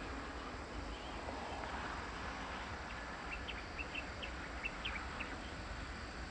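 Quiet open-air background noise with a bird giving a quick series of short, high chirps, about three to five seconds in.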